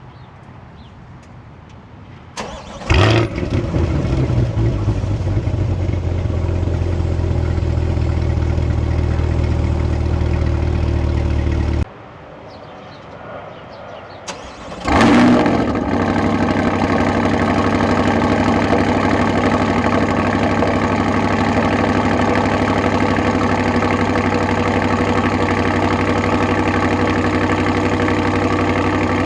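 C8 Corvette V8 fitted with an AWE aftermarket exhaust starting up twice. Each start is a loud flare that settles into a steady idle: the first about three seconds in, then a break near twelve seconds, then a second start near fifteen seconds that idles to the end.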